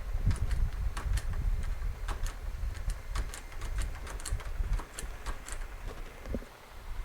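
Irregular sharp clicks and snaps over a low handling rumble as jumper-pack leads are touched to the terminals of a rebuilt scooter starter motor, which does not spin: either the jumper pack is flat or the rebuild has failed.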